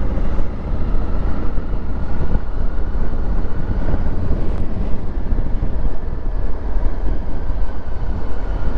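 Honda Africa Twin Adventure Sports' parallel-twin engine running steadily as a low rumble while the motorcycle is ridden.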